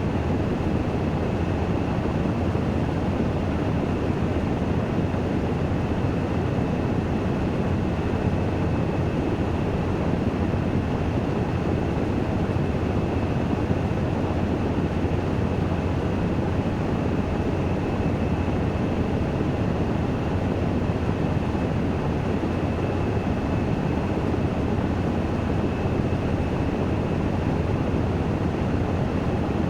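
Washing machine in its spin-dry cycle, spinning steadily: an even, low-heavy rumbling noise with a faint steady high whine over it.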